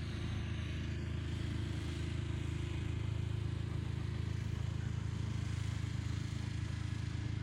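A vehicle engine running steadily with a low, even drone, cut in and out abruptly.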